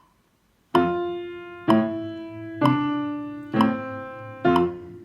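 Piano playing slowly: after a brief silence, a note or chord is struck about once a second, each left to ring and fade before the next.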